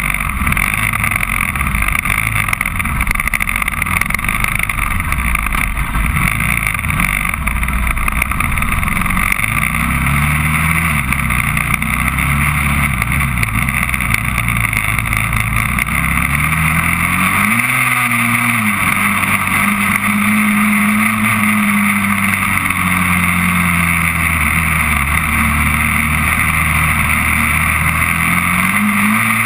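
Honda TRX400EX quad's single-cylinder four-stroke engine running under way, its pitch climbing and falling again and again as the rider accelerates and lets off.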